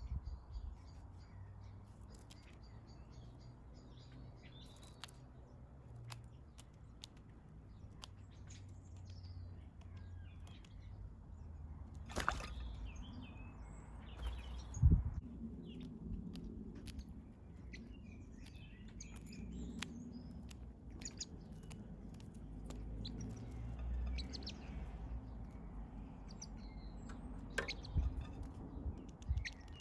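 Small garden birds chirping on and off, with short scattered calls over a low steady rumble. Two or three louder knocks break in, near the middle and near the end.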